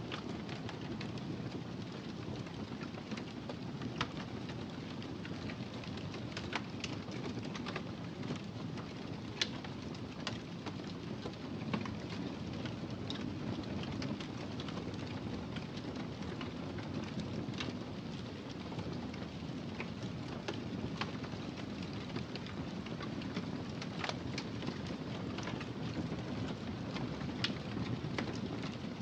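Wood fire crackling: a steady low rush of burning with scattered sharp pops and snaps.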